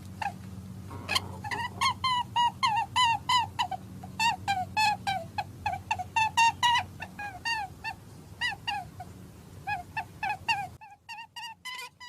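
Birds calling over and over in short, pitched chirps, several a second, with a steady low hum underneath that stops near the end.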